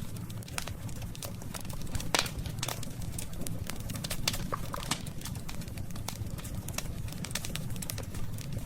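Campfire of burning wood crackling, with irregular sharp pops and one louder snap about two seconds in, over a steady low rumble.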